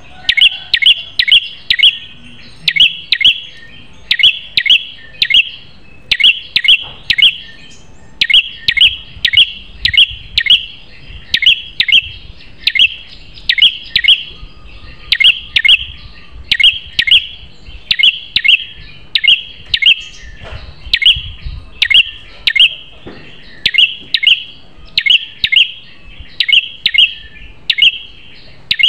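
Prenjak kepala merah songbird calling: loud, sharp, high chirps repeated in quick runs of two to four notes, about one run a second, without pause. It is a masteran song, the calls played to train a captive prenjak.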